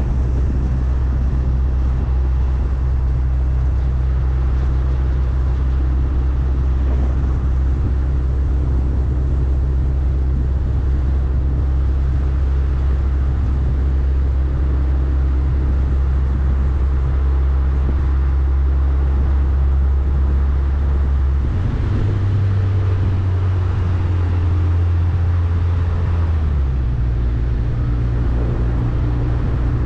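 Steady low drone of a moving vehicle's engine and road noise. It shifts up in pitch a little over twenty seconds in and settles back down about five seconds later.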